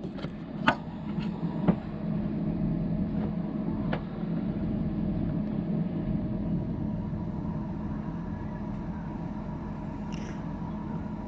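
Steady low hum of a 12 V portable fridge's compressor and cooling fan running while the freezer side cools, with a few sharp clicks in the first few seconds.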